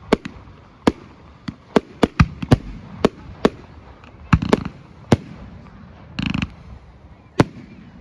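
Fireworks display: about a dozen sharp bangs of bursting aerial shells at irregular intervals, with a brief noisy burst a little after six seconds in.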